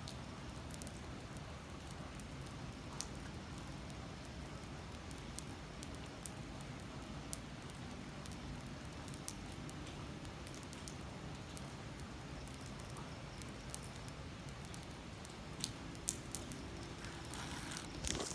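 Steady rain falling on wet pavement: an even hiss with scattered sharp ticks of single drops. A louder rustle comes near the end.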